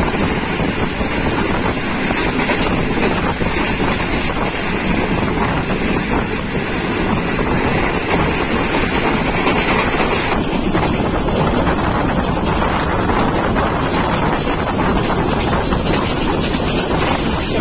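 Passenger train running at speed, heard from on board: a steady rush of wheel-and-rail running noise, with wind blowing across the microphone.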